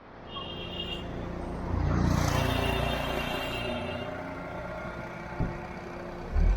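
Road traffic heard while driving on a busy city road: steady engine and tyre rumble, a brief high-pitched horn-like tone near the start, a louder stretch with hiss, as of a vehicle passing close, from about two to three and a half seconds in, and two short low thumps near the end.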